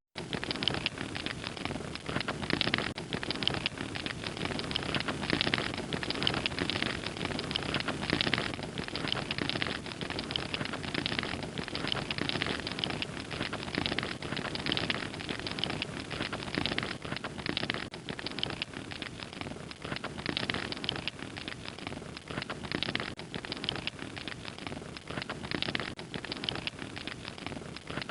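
Fire crackling steadily, a dense run of small pops and snaps over a soft hiss.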